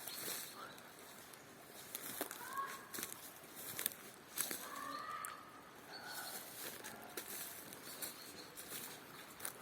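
Outdoor birdsong: short whistled bird calls that rise and fall in pitch, heard a few times, over a steady outdoor background with scattered sharp clicks.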